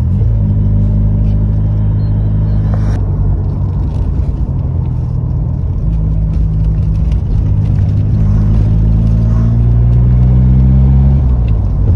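Ford Sierra RS Cosworth's turbocharged 2.0-litre four-cylinder running under way on the road, heard from inside the cabin. The engine note is steady and shifts pitch at about six seconds, then dips and climbs again near the end as it changes gear.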